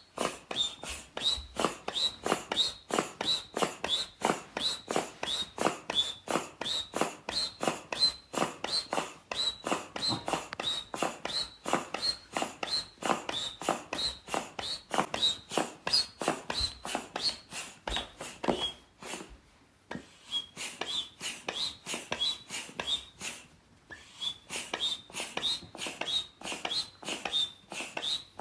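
Air pump inflating an exercise ball: rhythmic pumping strokes about twice a second, each a rush of air with a short high squeak, pausing briefly twice.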